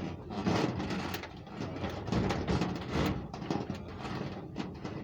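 Irregular clattering, scraping and rustling of small objects being handled, with many short clicks and no engine running.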